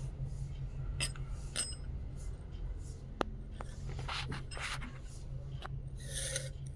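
Light rustling and scratching with a few sharp clicks, one with a brief metallic ting, over a steady low hum.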